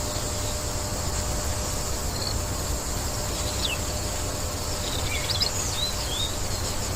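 Insects shrilling in one steady high drone, with a few short bird chirps in the second half, over a low rumble.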